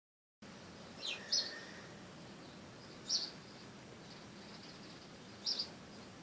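A bird giving short, high chirps, three times about two seconds apart, over a steady outdoor hiss.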